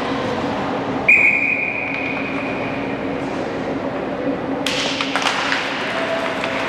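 Referee's whistle blown once, a single high steady blast of just under a second about a second in, over the hum of the hockey arena. Later come sharp knocks and scrapes of sticks, puck and skates on the ice.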